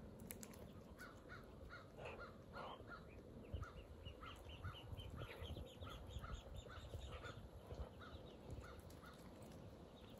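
A bird calling faintly in a long run of short, evenly spaced notes, about three a second, with two lower, harsher calls about two seconds in. Soft low thuds of duck bills pecking at the ground sit underneath.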